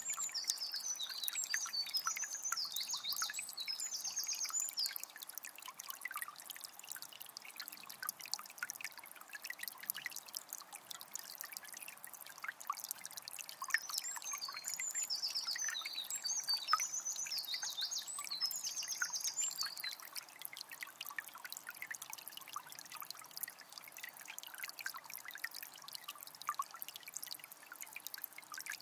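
Shallow forest river trickling and burbling over stones in a steady patter. A small songbird sings quick trilled phrases twice, once in the first few seconds and again about halfway through.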